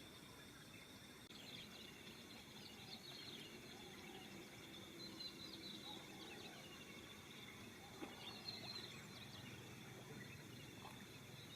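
Faint birdsong: many small birds chirping in short, high twitters scattered throughout, over a steady low background noise.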